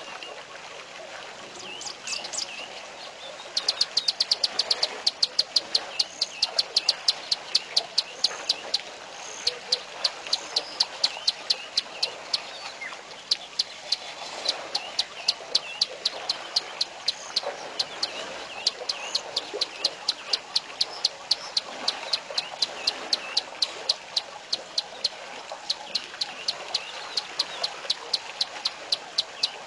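Birds calling: a fast run of sharp high ticks, about five a second, begins a few seconds in and carries on in runs, over scattered short chirps.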